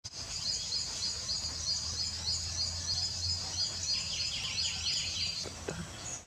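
Small birds chirping in a fast, high-pitched, continuous twitter, with a lower run of chirps about four seconds in, over a steady low hum.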